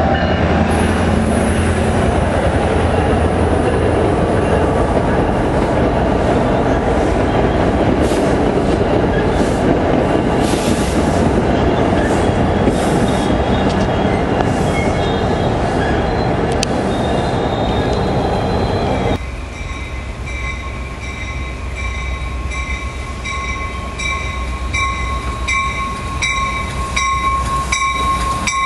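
A commuter train passing close by, with loud rumbling of wheels on rail that drops away suddenly about two-thirds of the way through. After that, steady high squealing tones ring on, with a regular ticking of wheels over rail joints near the end.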